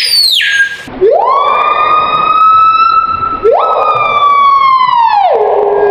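Screaming piha calling: loud ringing whistles. A high note drops away sharply just after the start, then two long whistles each sweep up and hold, the second falling off near the end.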